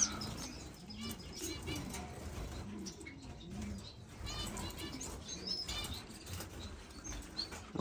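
Small caged finches chirping and trilling in short, scattered calls, with now and then a flutter of wings.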